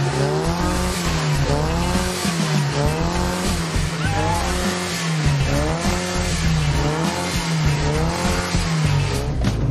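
Small rear-mounted engine of a Fiat 600-style classic car revving up and down over and over as the accelerator is pumped, about once every second or so.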